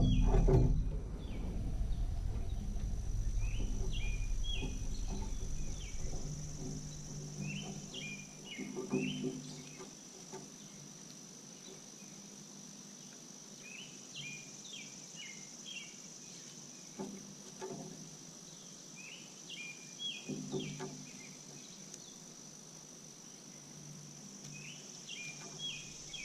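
A songbird singing a short phrase of quick chirps over and over, about every five or six seconds, over a steady high-pitched insect drone.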